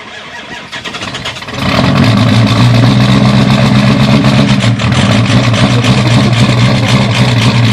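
Ford 6.0 Powerstroke V8 turbodiesel cold-starting after sitting in extreme cold with no block heater: it cranks and catches about one and a half seconds in, then runs loud and steady with a rapid clatter.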